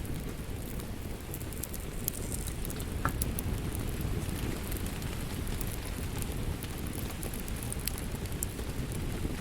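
Wood fire crackling in a fireplace: a steady low rumble with scattered sharp pops and snaps, one louder pop about three seconds in.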